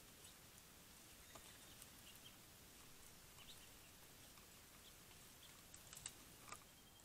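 Faint outdoor quiet with scattered soft bird chirps and small clicks from wild birds at a seed feeding station; a few sharper ticks come about six seconds in.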